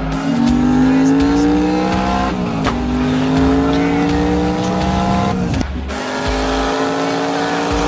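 Car engine accelerating hard through the gears: its pitch climbs steadily, drops back at a gear shift about two and a half seconds in, climbs again, and drops at a second shift near six seconds.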